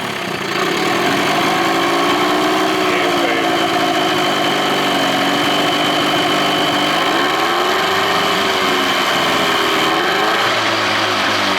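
2000 Johnson 25 hp two-stroke outboard idling steadily just after starting, its speed wavering a little. It still has a slight miss, which the owner puts down to a lean idle mixture.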